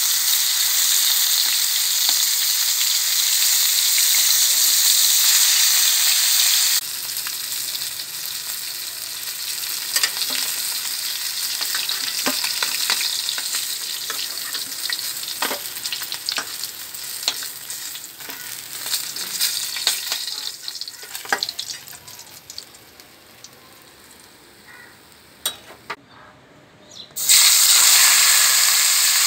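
Katla fish pieces shallow-frying in oil in an aluminium kadai, sizzling, with a metal spatula scraping and clicking against the pan as the pieces are turned and lifted out. The sizzle drops sharply about seven seconds in and fades low. Near the end a sudden loud sizzle starts as chopped onion, tomato and green chillies go into the hot oil.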